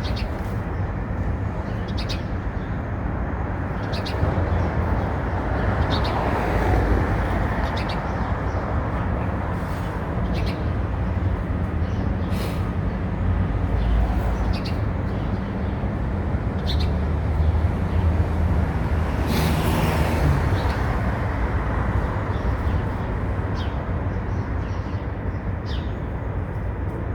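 Steady outdoor traffic noise, swelling twice as vehicles pass, with short bird chirps now and then.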